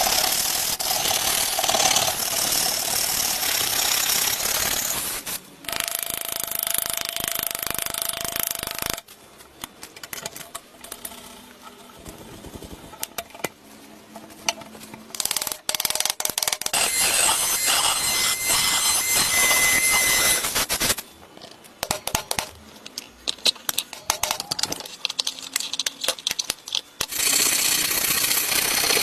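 Rust being worked off the metal of a rusty switchblade knife with abrasive tools: long stretches of harsh scraping and grinding, the middle one with a steady high whine. They are broken by quieter spells of small clicks and taps as the parts are handled.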